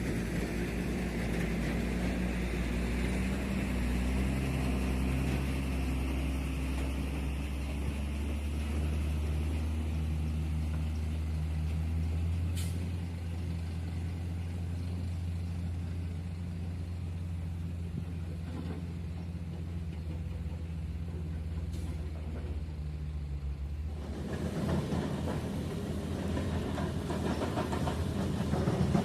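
Heavy diesel engine running steadily with a low hum. About 24 seconds in, the steady note gives way to a rougher, noisier rumble.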